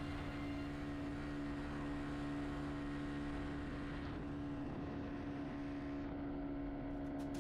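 Honda C50 Super Cub's small four-stroke single-cylinder engine running steadily at cruising speed while riding, an even, unchanging drone.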